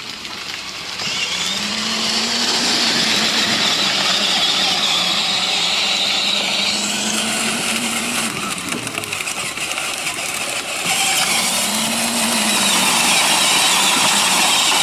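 Battery-powered ride-on toy truck driving, its electric motors and plastic gearbox whining with a hiss of wheels over the ground. The whine picks up about a second in, sags briefly past the middle and comes back louder near the end.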